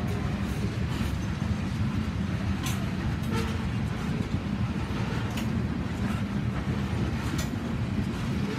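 Tank cars of a slow oil train rolling past: a steady low rumble of steel wheels on rail, with a few short sharp clicks from the wheels now and then.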